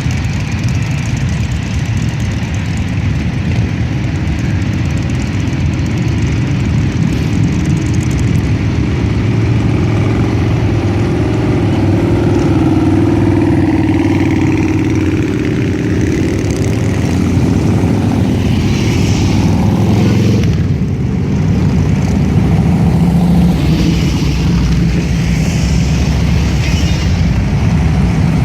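Many motorcycle engines running together in a large group ride: a loud, continuous rumble, with individual engine notes coming and going.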